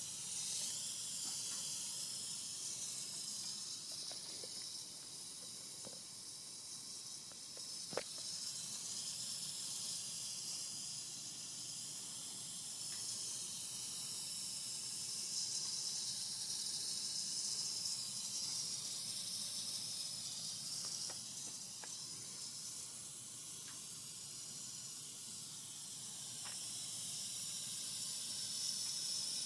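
Steady high-pitched hissing from a car, with one sharp click about eight seconds in.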